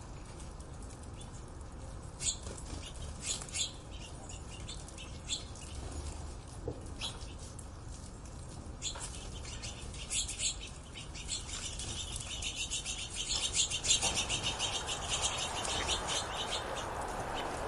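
Birds calling: scattered short, sharp chirps, then dense, rapid twittering from about three quarters of the way in.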